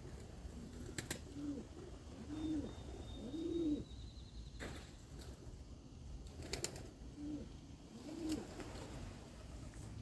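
Racing pigeons cooing at the loft: a run of low, short coos that come every second or so, with a few sharp clicks among them.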